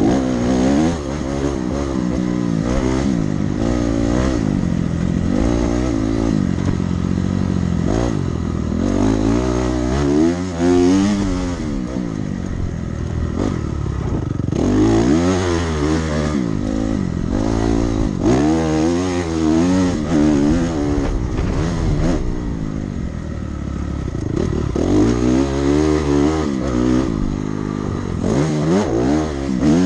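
Dirt bike engine being ridden hard, its pitch repeatedly rising as the throttle opens and falling back as it comes off, over and over.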